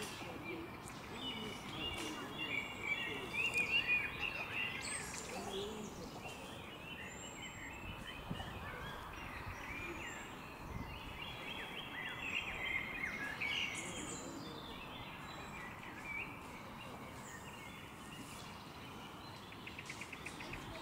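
Songbirds chirping and warbling in two spells over a steady outdoor background hiss, with a fast ticking trill near the end.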